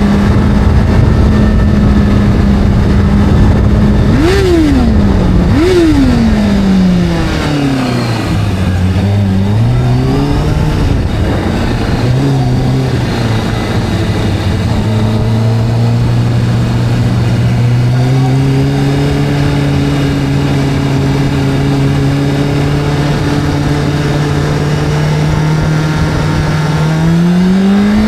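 Video-game motorcycle engine running at a steady note, blipped up twice in quick succession, then dropping away as the bike slows before settling into a lower steady cruise and climbing again near the end, over a constant rushing hiss.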